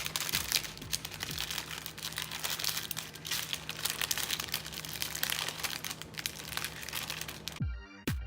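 Paper crinkling and rustling as the edges of a paper cooking pouch are folded and crimped shut by hand, over a steady low hum. Near the end it cuts to electronic music with a heavy bass beat.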